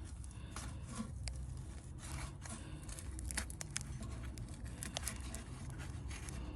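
Faint, irregular light clicks and scrapes of hand tools on metal fasteners, as screws are worked loose from a car's underside, over a low steady hum.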